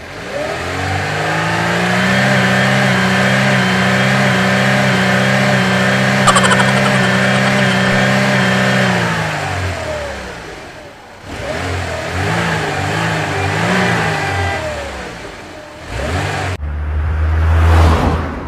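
Motor vehicle engine sound effect that revs up, holds a steady pitch for about nine seconds, then winds down. After a short gap a wavering engine sound follows, and near the end comes a louder rising rush.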